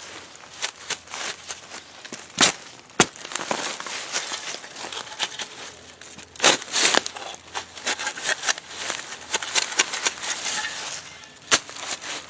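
Digging a plant out of forest soil and leaf litter: irregular crunching, scraping and crackling of dirt, dry leaves and roots, with a few sharper strikes of the tool into the ground.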